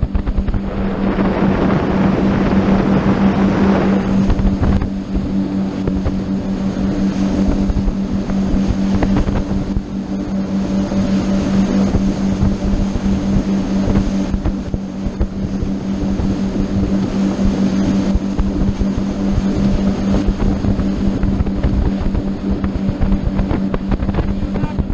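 Motorboat engine running steadily under way, a constant hum with wind buffeting the microphone and water rushing past.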